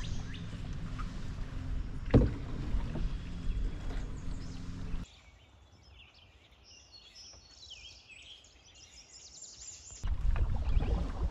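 Canoe being paddled on a river: a low rumble of wind and water with a single knock about two seconds in. It cuts suddenly to a quieter stretch with faint bird chirps, and the rumble returns just as suddenly near the end.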